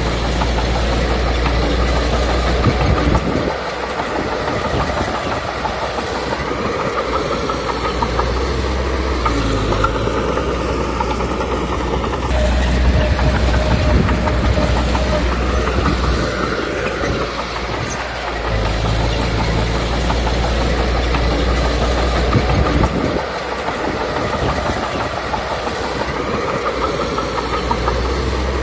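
Komatsu D21P crawler bulldozer working: its diesel engine running with the steel tracks clattering. The heavy low rumble swells and eases every few seconds as the load comes on and off.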